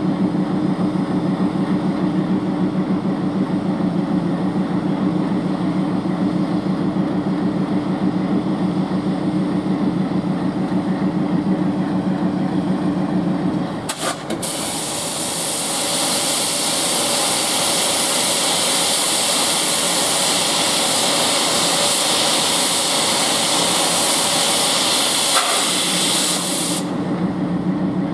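ALCO WDM-3D diesel locomotive's 16-cylinder engine idling with a steady drone. About halfway through, after a click, a loud hiss of compressed air being released starts, runs for about twelve seconds and cuts off suddenly, leaving the engine idling.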